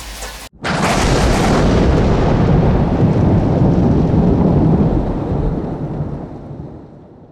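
Thunderclap with a long low rumble. It breaks in suddenly after a momentary cut in the falling rain, holds for about four seconds, then dies away.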